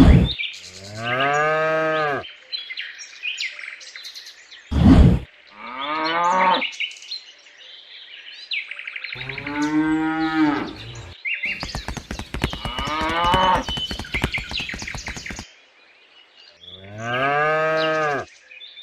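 Cows mooing: four long moos, each rising then falling in pitch. A rapid buzzing rattle runs for about four seconds between the third and fourth moos, and there are short bursts of noise at the start and about five seconds in.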